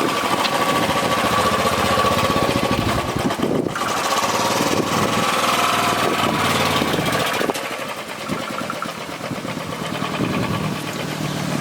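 Motorcycle engine running steadily, with a rapid, even firing beat.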